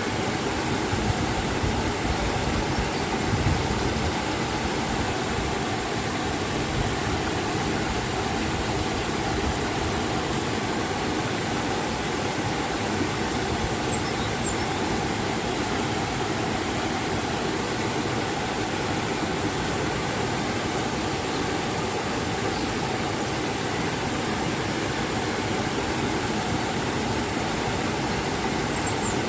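Steady rushing of a river and waterfall, an even roar of water that holds at one level throughout.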